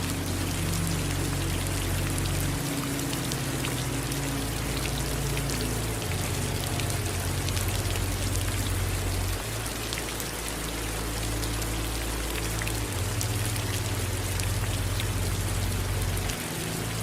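Steady rain falling, with individual drops ticking through it, over a low rumble that changes in steps every three to four seconds.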